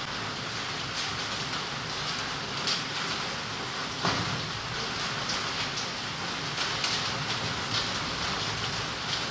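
Rain falling steadily, a constant hiss with scattered louder drop ticks; one drop about four seconds in stands out.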